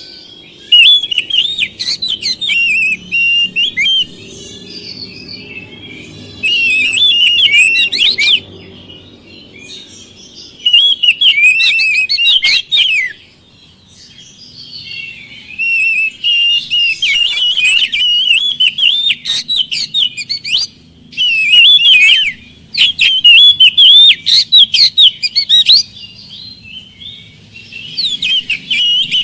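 Oriental magpie-robin (kacer) singing loud bouts of fast, varied whistled and chattering phrases, about six bursts with short pauses between them.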